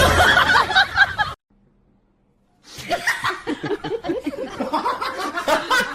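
People laughing and snickering, broken by about a second of silence, then more laughter and voices.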